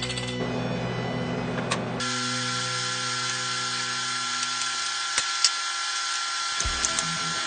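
A small motor or power tool running steadily. About two seconds in its sound changes: the low hum thins and a steady high whine with hiss takes over. A few sharp clicks come through later.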